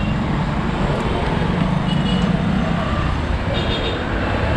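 Road traffic heard from a moving bicycle: a steady rumble of engines and road noise, with short high-pitched toots about two seconds in and again near the end.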